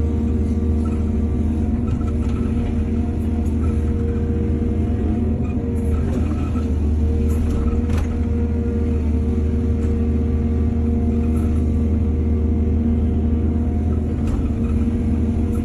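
Excavator's diesel engine running steadily with a deep rumble, with a few faint knocks, one about halfway through.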